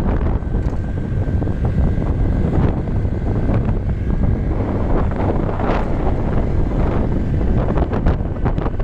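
Wind buffeting the microphone on a moving bike, a steady loud rumble with brief gusts.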